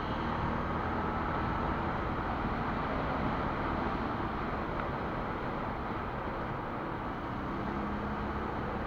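Quad bike engine running on the move, under a steady rush of wind and terrain noise with a faint low engine hum.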